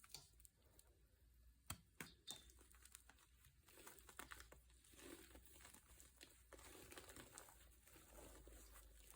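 Faint crinkling, with scattered sharp clicks and taps, the two loudest about two seconds in.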